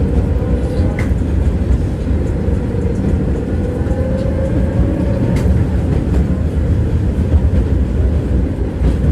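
Tram running along the track: a steady low rumble of wheels on rails, heard from on board, with two sharp clicks about a second and five seconds in.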